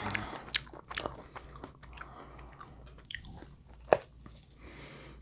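Close-miked eating sounds: biting and chewing with wet crunches and clicks, one sharp click near 4 s in.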